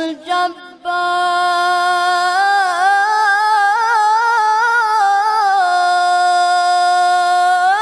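A male Quran reciter's solo voice chanting in tajwid style. After a few short phrases, he holds one long elongated vowel from about a second in, ornamented with wavering turns in the middle and held steady near the end.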